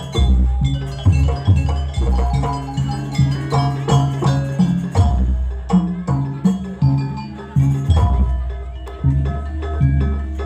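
Jaranan music from a Javanese percussion ensemble: drums beat a steady, driving rhythm of about two strokes a second under ringing tuned-gong and metallophone notes.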